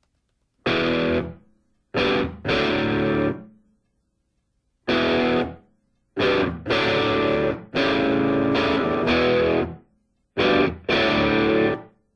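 Distorted electric guitar playing chords in short stabs, each held for about half a second to two seconds and each cut off into silence before the next.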